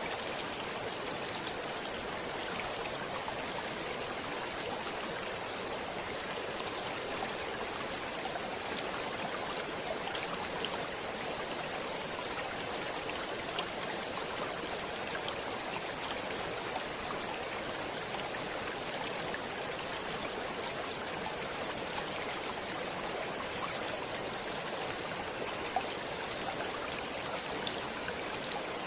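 Stream water running over rocks, a steady rush with small scattered splashes and trickles.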